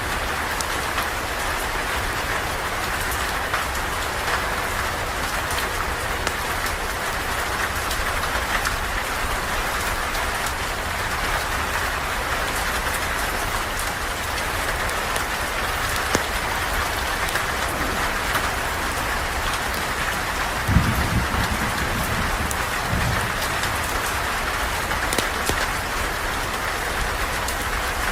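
Steady rain falling, an even dense hiss with scattered sharp ticks of drops. Two brief low thuds sound about 21 and 23 seconds in.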